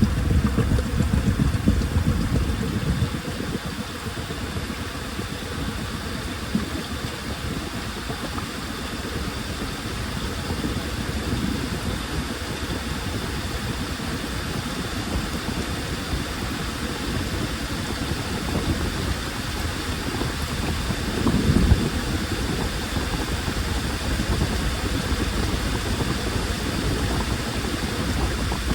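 Washing machine running: a steady low mechanical rumble and hum, louder for the first few seconds, then even, with a brief louder swell a little past two-thirds of the way through.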